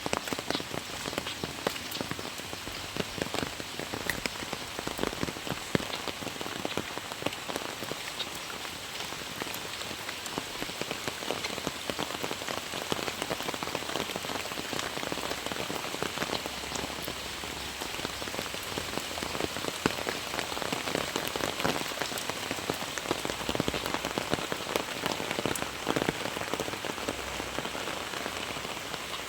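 Very heavy rain pouring down and pattering on surfaces, a dense steady hiss with countless individual drop strikes.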